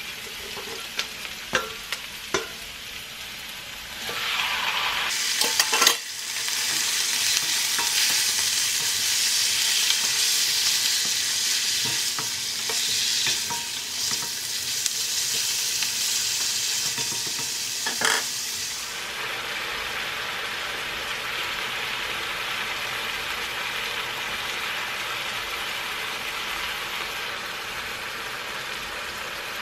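Chopped onion sizzling in oil in a non-stick wok, with a few clicks of a spatula against the pan. About six seconds in there is a loud clatter as raw chicken pieces go into the hot oil, and the sizzle jumps to a loud, bright hiss while they are stirred. About two-thirds of the way through it eases to a softer, steady sizzle.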